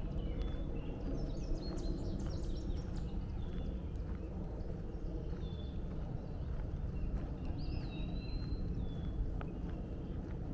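Woodland birds chirping and whistling in short phrases, with a clear whistled note about eight seconds in, over a steady low rumble and the walker's footsteps on the trail.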